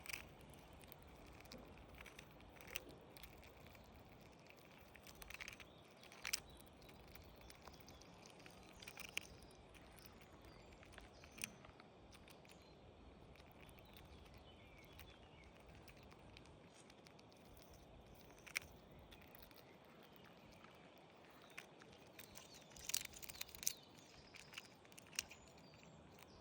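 Near silence with a faint background hiss, broken by scattered short, sharp clicks, several of them close together near the end.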